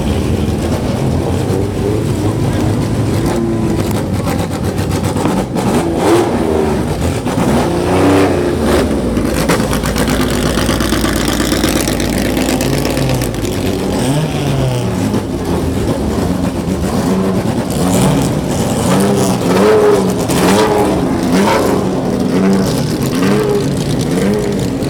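Engines of classic racing cars revving and accelerating as several cars pass one after another, their pitch rising and falling and overlapping.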